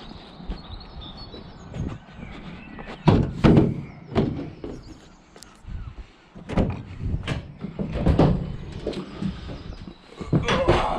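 A series of knocks, clunks and thuds of metal being handled in the back of a van as a small scrap appliance is loaded, the heaviest cluster about three seconds in.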